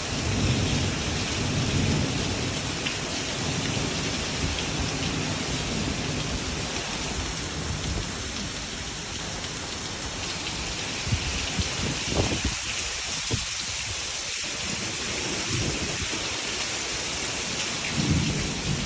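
Heavy rain pouring steadily, with a low rumble under it near the start and again near the end.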